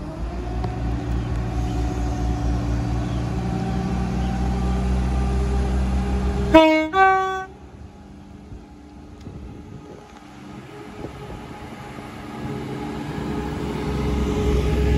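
A train running with a steady low rumble, then two short horn toots about six and a half seconds in, the second a step higher in pitch. The rumble drops away sharply after the horn, and a train's rumble builds again near the end.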